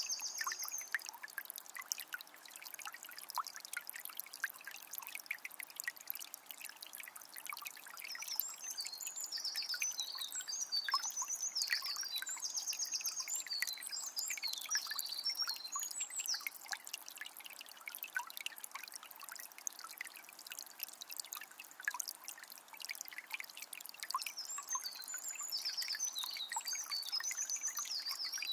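A calm forest river flowing steadily. A small bird sings high, quick phrases several times over the water.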